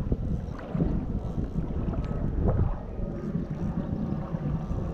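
Wind buffeting the microphone with a low rumble, over water lapping against a kayak's hull.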